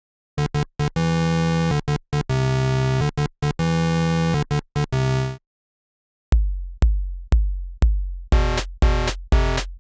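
Electronic music: a choppy, buzzy synthesizer passage that stops and starts, then after a short gap a drum-machine beat with a kick about twice a second, with synth chords joining a couple of seconds later.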